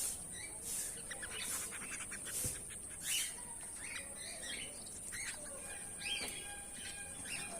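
Goldfinches chirping in short, scattered calls over a steady high-pitched hiss.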